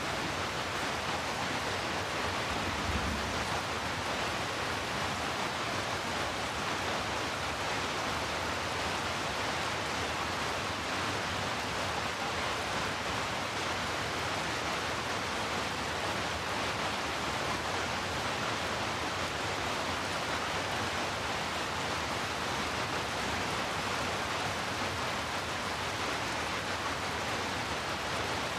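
Steady rain falling as an even, unbroken hiss, with a short low rumble about three seconds in.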